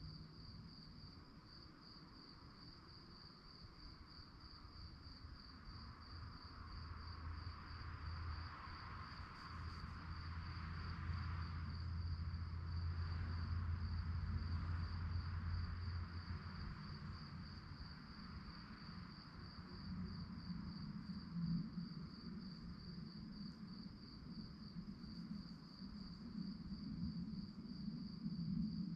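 Crickets chirping in a steady, evenly pulsing high trill. A low rumble with a hiss swells up about a quarter of the way in and fades by about halfway, and a low hum rises again near the end.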